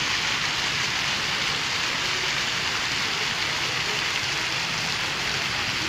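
Fountain water jets spraying and splashing down into the pool in a steady, even hiss.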